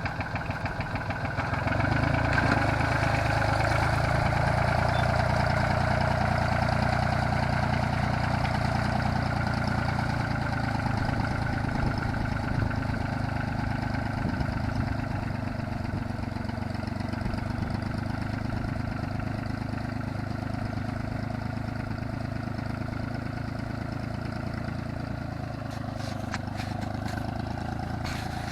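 Yanmar YM3000 tractor's diesel engine running under load while levelling field soil. It picks up and gets louder about two seconds in, then runs steadily and eases slightly, with a few faint clicks near the end.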